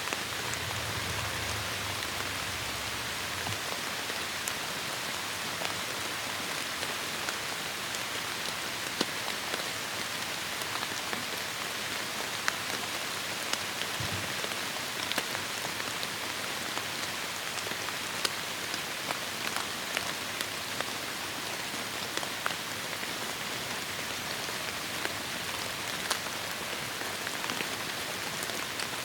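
Heavy rain falling steadily on forest foliage, a dense even hiss with many individual drops ticking sharply on leaves and surfaces. A faint low rumble sits under it in the first few seconds.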